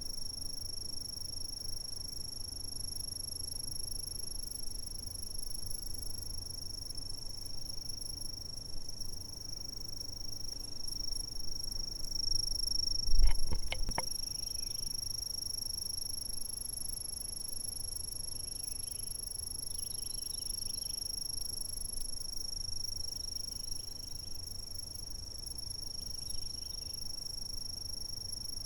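A steady, unbroken high-pitched insect trill, with faint scattered chirps underneath. About thirteen seconds in there is a brief low thump with a few clicks.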